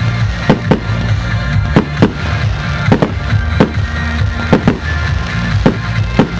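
Aerial fireworks going off in a quick, uneven series of sharp bangs, about two a second, over music with a steady bass line.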